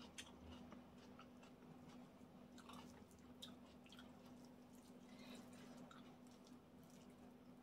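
Very quiet eating by hand: faint chewing and scattered soft clicks of fingers picking at food, over a low steady hum.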